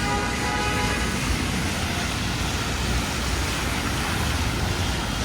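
Steady hiss of rain and traffic on a wet city street, with a low rumble of passing vehicles. A held pitched sound ends about a second in.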